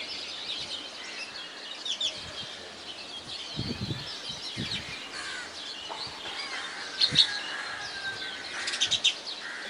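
Many small birds chirping and twittering at once, a busy overlapping chorus of short high calls. A few dull low thumps come through about a third and two-thirds of the way in.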